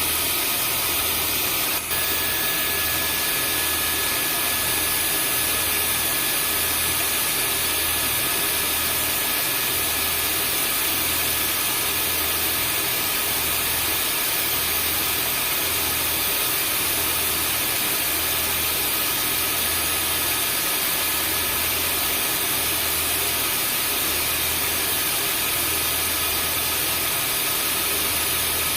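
Vacuum cleaner running steadily: a continuous rushing noise with a fixed high whine and a slow, even low throb underneath. A brief dip about two seconds in.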